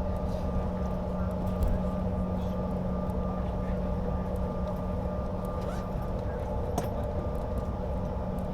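Steady cabin noise inside a CRJ-550 regional jet with its two rear-mounted GE CF34 turbofans running: a low rumble under a steady hum and a fainter higher tone, with a few faint clicks.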